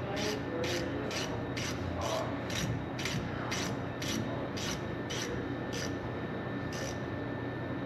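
Rhythmic rasping strokes of a hand tool worked back and forth on metal, about two a second, stopping shortly before the end, over a steady low hum.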